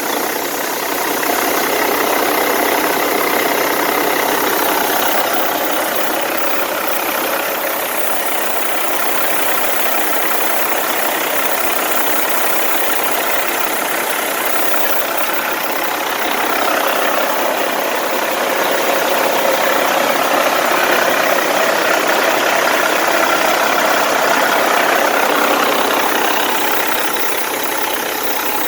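2002 Caterpillar C15 6NZ single-turbo 15.2-litre inline-six diesel engine running steadily at idle, loud and even throughout.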